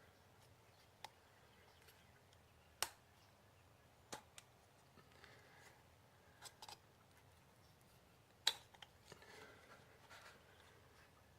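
Near silence broken by a few short, sharp clicks or taps, the loudest about three seconds in and about eight and a half seconds in.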